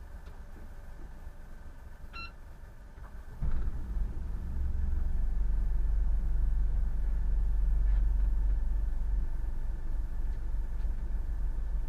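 A short beep, then a boat's engine comes in suddenly with a loud low rumble about three and a half seconds in, picks up a little a second later and runs steadily.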